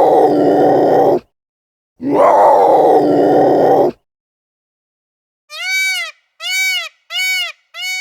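Animal calls: two long, rough, harsh calls, then about four seconds in a different, higher voice gives four short calls in quick succession, each rising and falling in pitch.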